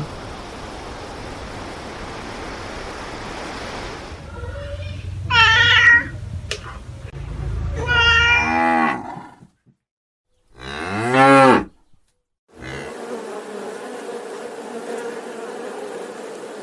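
An animal calling three times, each call a drawn-out pitched cry of about a second, the second falling in pitch and the third rising and falling; steady background noise fills the rest.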